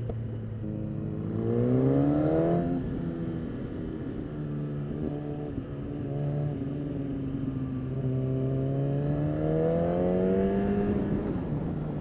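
Motorcycle engine heard from the rider's seat, pulling up through the revs with a rising pitch, dropping abruptly about three seconds in, running steady, then rising slowly again and dropping near the end.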